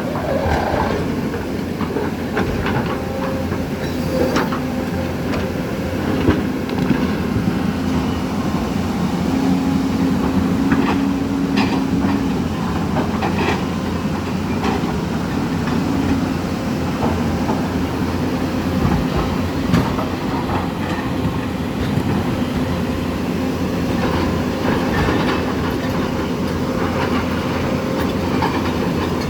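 Floodwater in a swollen river rushing steadily, a heavy continuous rumble with a low steady hum running through it and scattered sharp clicks.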